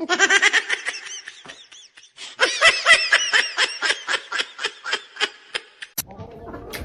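High-pitched human laughter in two runs of quick ha-ha pulses, about five a second; the second run is longer and louder. A couple of sharp clicks come near the end.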